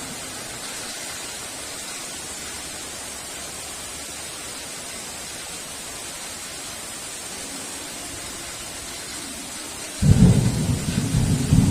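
Steady heavy rain hiss, then a sudden loud low rumble of thunder breaking in near the end.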